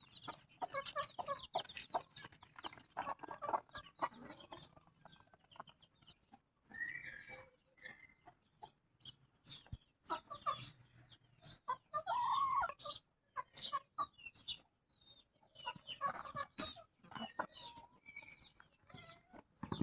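Chickens clucking and calling, many short irregular clucks overlapping, with a few longer calls between.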